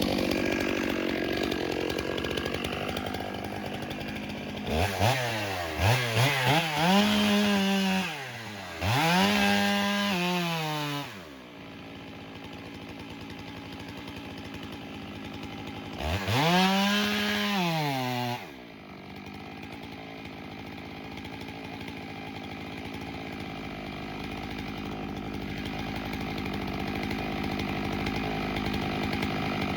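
Two-stroke chainsaw running between idle and full throttle. It is revved up and back down several times between about five and eleven seconds in, and once more later, then runs steadily.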